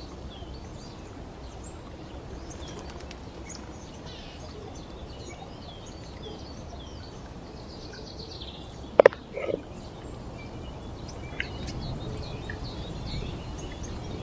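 Forest ambience: a steady rushing background with small birds chirping faintly throughout. About nine seconds in there is a sharp clink with a short ring, then a softer one half a second later.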